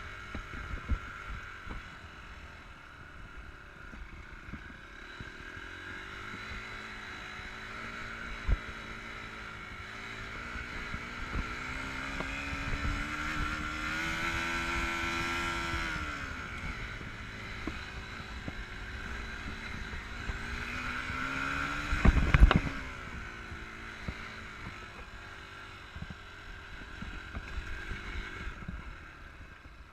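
Enduro motorcycle engine running as the bike rides: its pitch climbs steadily under acceleration to a peak about halfway through, drops sharply, then rises again. A loud, brief thump comes about three-quarters of the way through.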